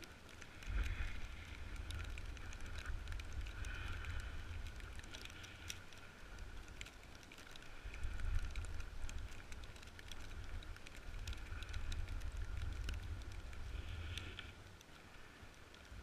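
Blizzard wind buffeting the microphone in gusts, with the hiss of a snowboard sliding and scraping over snow and scattered ticks. The gusts swell about a second in and again about eight seconds in, and ease near the end.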